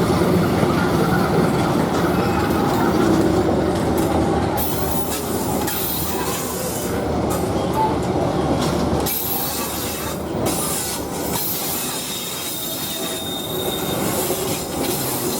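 Passenger train rolling across a railway bridge: a steady, continuous rumble of coaches and wheels with metallic wheel squeal.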